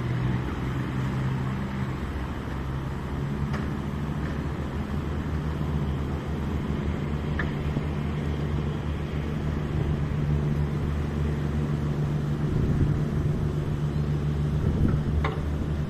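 Diesel engine of a river tugboat, fitted with a very large turbo, running steadily with a low, even drone.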